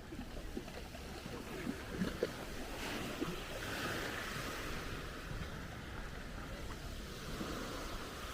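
Black Sea surf washing onto the shore, one wave swelling about four seconds in, with a low wind rumble on the microphone.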